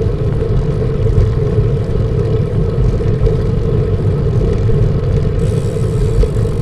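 Wind buffeting the microphone of a cyclist riding into strong gusts: a loud, steady low rumble.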